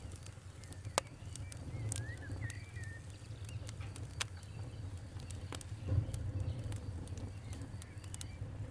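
Wood fire crackling, with irregular sharp pops over a low steady rumble, the loudest pop about a second in. A bird chirps a few times about two seconds in.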